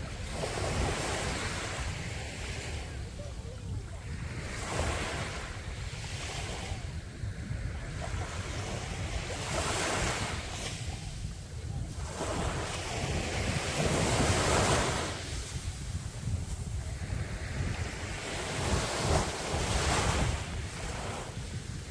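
Sea waves breaking and washing up a beach, the surf swelling and falling away every few seconds. Wind buffets the microphone underneath with a steady low rumble.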